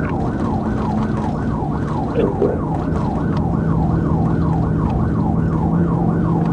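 Police car siren in yelp mode, its pitch sweeping rapidly up and down about three times a second, over the steady drone of the patrol car's engine and road noise.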